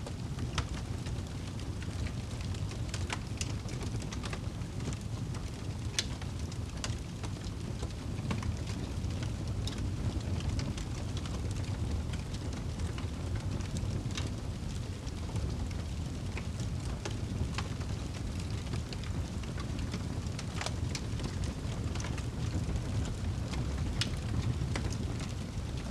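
Wood fire crackling, with scattered sharp pops and snaps at irregular intervals over a steady low rumble.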